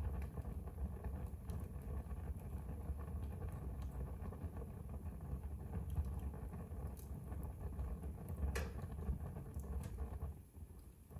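Wood fire burning in a fireplace: a steady low rumble of flames with scattered crackles, one sharper pop about eight and a half seconds in.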